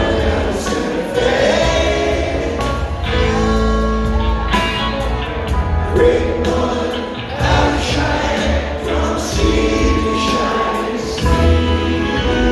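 Live rock band playing, with several voices singing over guitars, bass and drums.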